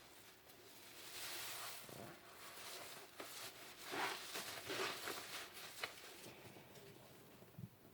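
Car wash sponge being squeezed and worked in soapy water, with faint wet squishing and dripping in two longer bursts and a few small clicks. A soft low thump comes near the end.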